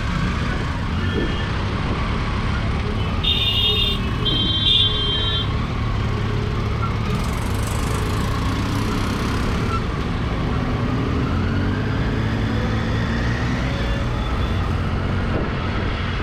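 Triumph Tiger 800 XRx three-cylinder engine running steadily under way in traffic, with wind and road noise. A vehicle horn toots twice, briefly, about three to five seconds in.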